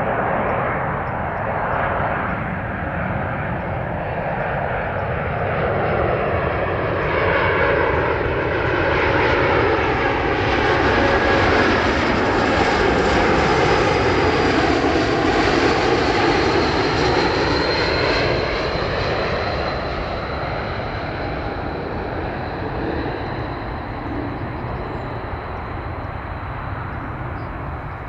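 Airbus A220-300 airliner with Pratt & Whitney PW1500G geared turbofan engines passing overhead on its landing approach. The engine sound grows louder, peaks about halfway through, then fades, with a sweeping rise-and-fall as the plane passes. A high whine settles slightly lower in pitch as the plane moves away.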